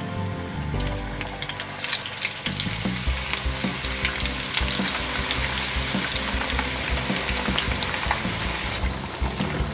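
Zucchini sticks frying in hot seed oil: a dense crackling sizzle that thickens about two to three seconds in as the bubbling spreads, over light background music at the start.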